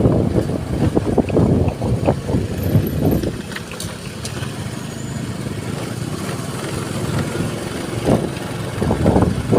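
Road noise of a moving vehicle, with wind buffeting the microphone in gusts during the first few seconds and again near the end; steadier in between.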